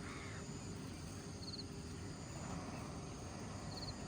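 Steady outdoor background noise with a short, high, rapid chirp heard twice, about a second and a half apart.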